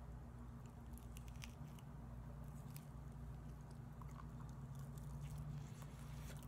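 Close-up chewing of soft, jelly-textured barbecued chicken: small wet mouth clicks and smacks scattered irregularly, over a steady low hum.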